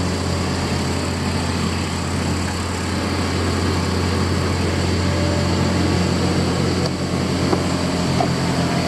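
Heavy construction machinery's diesel engine running steadily at a constant speed, a low even hum.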